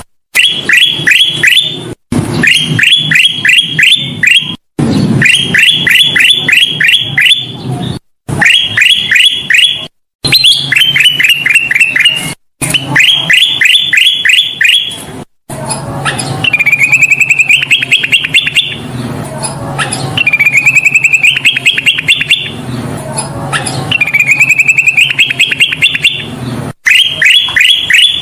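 Kutilang emas singing in fast chattering trills of quickly repeated high notes, each burst about a second and a half long, repeated over and over with short gaps. In the second half the bursts start lower and climb in pitch.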